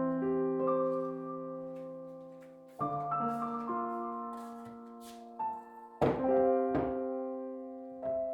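Soft background piano music: slow sustained chords, with new chords struck about three and six seconds in.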